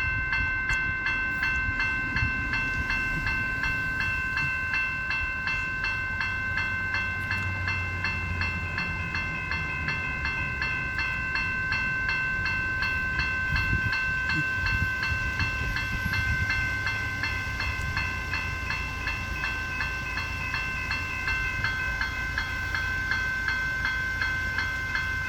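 Level-crossing bells, an adjusted General Signal type 1 and a General Signal type 3, ringing continuously with rapid, evenly repeated strokes: the crossing is activated and warning of an approaching train.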